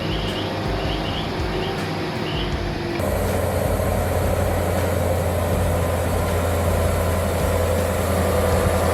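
Heavy truck engine running under load. About three seconds in, the sound changes abruptly to a louder, steadier low hum.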